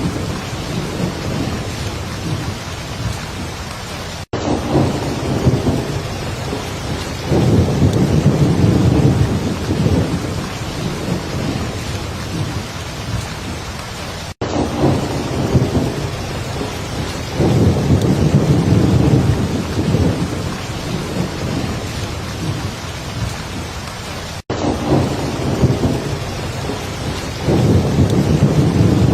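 Heavy rain falling steadily, with deep rolling thunder rumbles swelling up about every ten seconds. The sound cuts out for an instant three times, about ten seconds apart.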